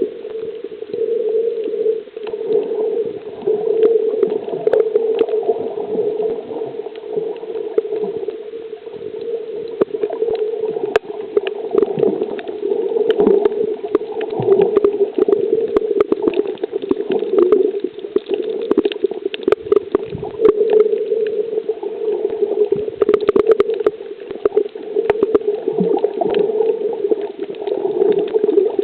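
Water gurgling and sloshing with many small clicks and splashes, over a steady hum.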